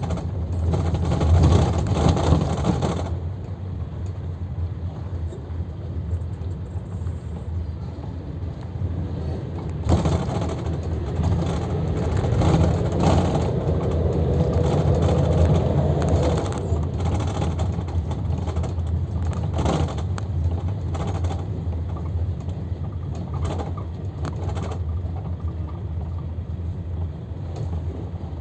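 Luidor 2250DS minibus heard from inside: a steady low engine hum with road and body noise, growing louder in stretches, with a faint rising whine around the middle as it gathers speed.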